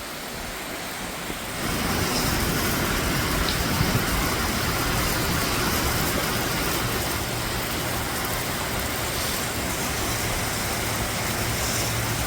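Steady rush of heavy rain and wet road noise from a motorcycle ride in the rain, with a low steady hum underneath; it grows louder about a second and a half in.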